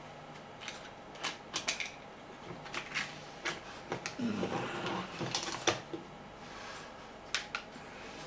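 Irregular light clicks and taps, about a dozen, from small parts and tools being handled on a workbench.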